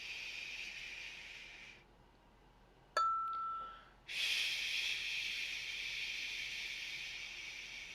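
A man voicing a long, breathy 'shh' mantra, which fades out about two seconds in; about three seconds in a single clear ding rings for about a second, then a second long 'shh' begins and holds.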